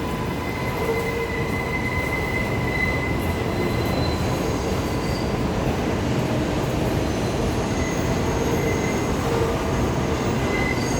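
New York City subway train running, with a steady rumble and the steel wheels squealing on the rails in thin high tones that fade in and out.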